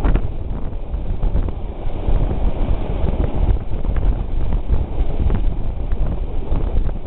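Wind buffeting the microphone held out of a moving train's window, over the steady rumble of the train running along the track with irregular clicks.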